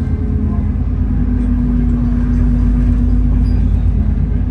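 Alexander Dennis Enviro400 double-decker bus under way, heard from inside: a heavy low rumble from the driveline and road with a steady hoover-like whine on top, which rises a little in pitch about a second in and then holds.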